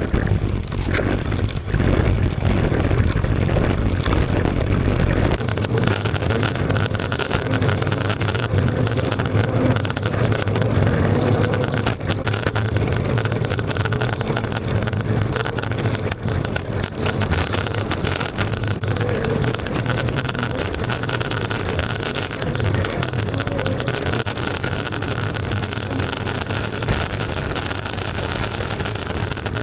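Longboard wheels (MBS all-terrain) rolling over pavement: a steady, loud rumble that gets lighter in the deepest bass about five seconds in.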